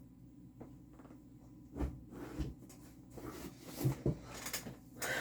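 Scattered knocks, taps and rustling from craft kit packaging being handled.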